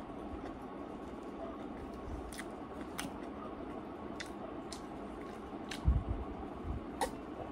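Close-up eating sounds: wet chewing with sharp mouth clicks every half second or so, and a louder low thump about six seconds in.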